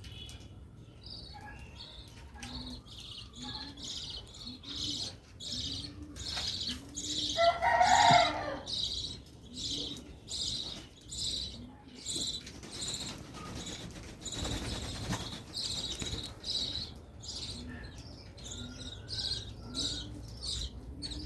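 Doves cooing: a long series of low, arched coo notes repeating every second or so, over steady high chirping. A louder, brief sound stands out about eight seconds in.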